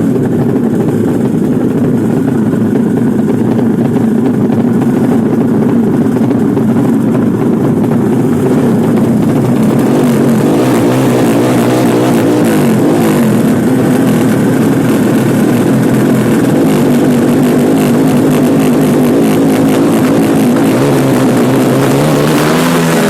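Honda CB motorcycle engine running loud and continuously, its pitch wavering, then rising near the end as it is revved; the engine is said to have trouble.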